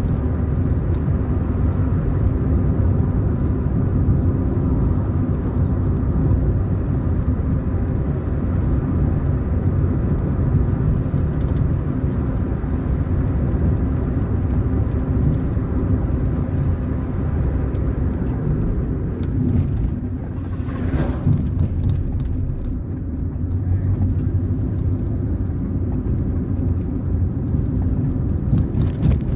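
Car driving along a road: steady engine hum and road noise, with a brief hiss about 21 seconds in.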